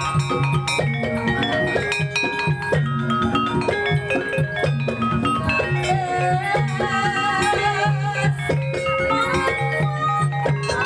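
Live gamelan music of the kind that accompanies ebeg: struck metallophone notes play melodic lines over a steady repeating low beat.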